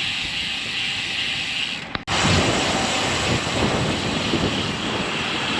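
Steady rush of wind over the microphone with tyre and road noise from a road bike in motion. About two seconds in the sound drops out briefly, then comes back rougher and louder in the low end.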